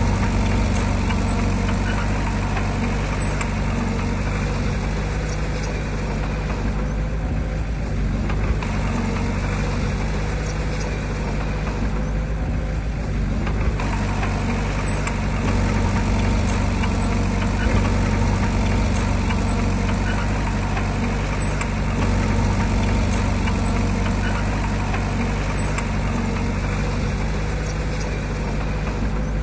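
Heavy diesel engine of earthmoving equipment running steadily, a constant low engine note with no change in speed.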